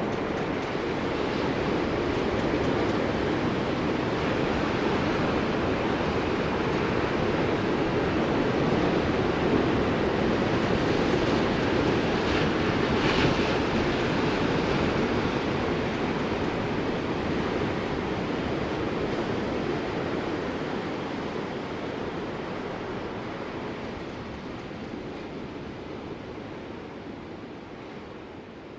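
Ocean surf: a continuous rushing wash of waves that swells a little midway and then gradually fades away toward the end.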